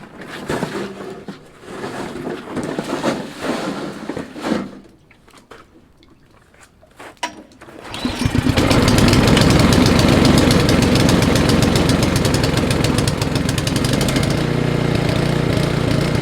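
Small gasoline snowblower engine starting up about halfway through, after some handling clatter, then running steadily. It starts right up after a couple of primer pumps on last season's fuel, its carburetor having been run dry at the end of last winter.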